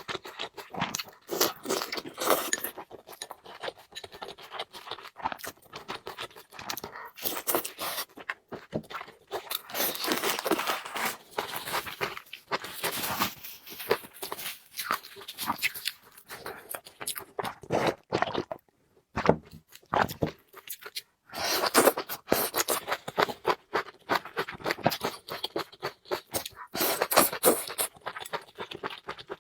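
Close-miked eating sounds: a person chewing food, with many quick, irregular crunching and smacking clicks and a short pause about two-thirds of the way through.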